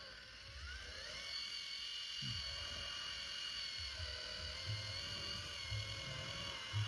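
Small electric motor and gearbox of an RC mini tractor whining; the pitch rises about a second in as it speeds up, then holds steady.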